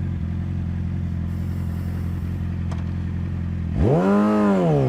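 Motorcycle engine idling steadily, then blipped once near the end, its pitch rising and falling back to idle.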